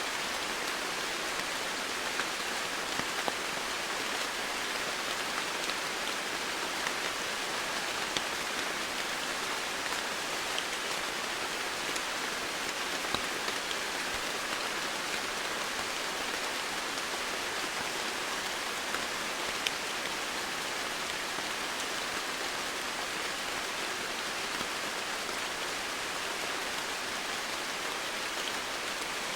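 Steady rain falling, a continuous even hiss with faint individual drops tapping now and then.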